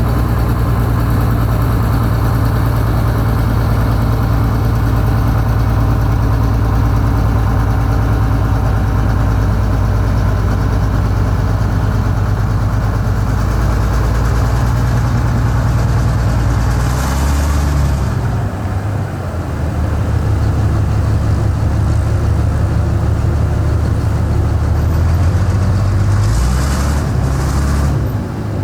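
Heavy diesel engine of construction machinery running steadily, its note shifting in pitch and load twice, about 17 seconds in and again near the end.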